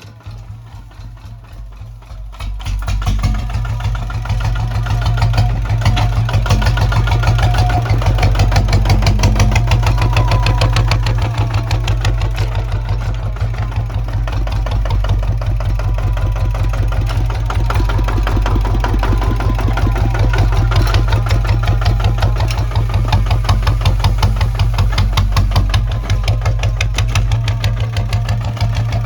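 Kubota ZT155 single-cylinder diesel engine of a walking tractor running with rapid, even firing pulses, growing louder about two and a half seconds in and then holding steady.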